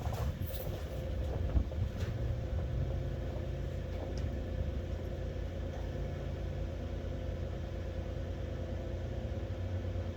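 Duramax diesel engine idling steadily just after a cold start, with a single sharp knock about a second and a half in.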